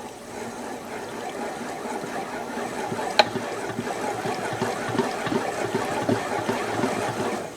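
Oil being worked into the crankshaft and con-rod bearings of a KTM 300 two-stroke bottom end: a wet trickling sound with many small irregular clicks, and one sharper click about three seconds in.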